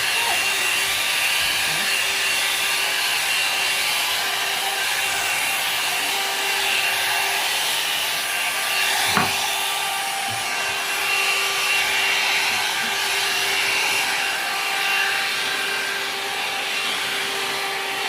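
Hand-held hair dryer with a comb nozzle running steadily, blowing hot air while it is worked through thick hair: an even rush of air with a constant motor whine in it. A single click about halfway through.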